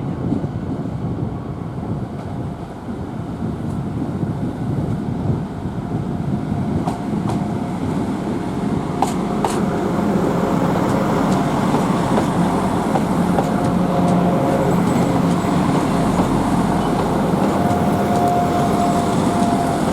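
A train moving at the station: a steady rumble that grows louder about halfway through, with a faint whine and a few sharp metallic clicks.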